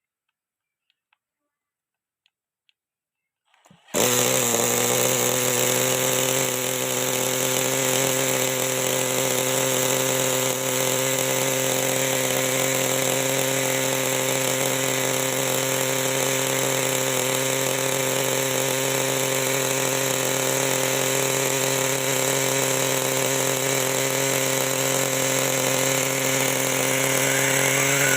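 Near silence with a few faint ticks, then about four seconds in the small nitro glow engine of a 1/5-scale RC motorcycle starts abruptly and runs steadily at a constant pitch.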